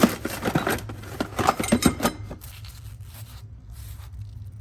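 Hand tools being rummaged through and handled, metal wrenches clinking and scraping against each other; busy for about the first two seconds, then only a few quieter knocks.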